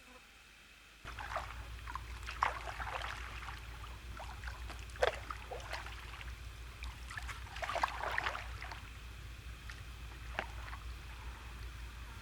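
Water splashing and sloshing in irregular bursts every second or two, as from a boat or paddle on water, over a steady low rumble.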